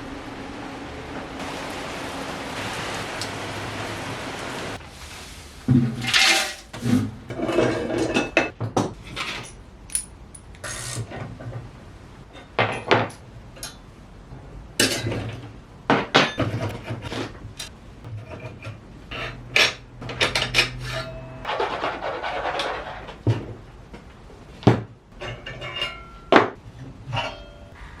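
Metal parts clanking and clinking, in many irregular strikes with a short ring. Before that, for about the first five seconds, a machine runs with a steady hum.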